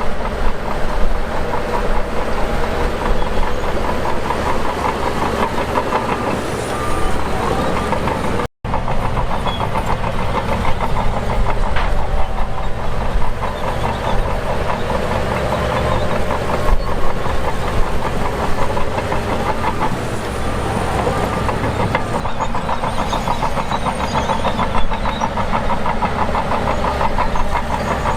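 Shantui DH17 bulldozer's diesel engine running steadily as the machine works. The sound cuts out for an instant about eight and a half seconds in.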